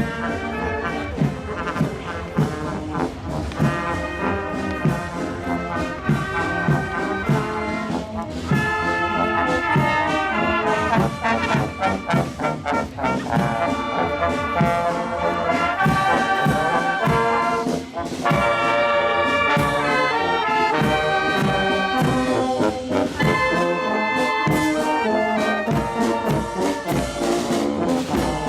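Brass band playing a tune, trombones and trumpets over a steady drum beat.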